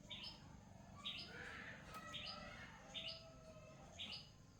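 Small bird chirping faintly, five short two-note chirps that step upward in pitch, about one a second.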